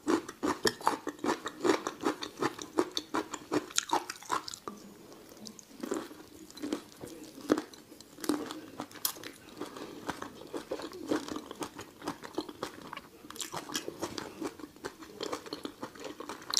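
Close-miked wet chewing, sucking and lip-smacking on raw chili-marinated prawns, with many irregular sharp crunches and clicks.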